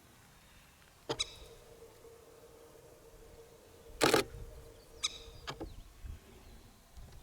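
Nikon D500 camera shutter clicks right beside the microphone: a quick double click about a second in, a loud short rapid burst around four seconds in, and a few more clicks about five seconds in. A faint steady hum runs under them.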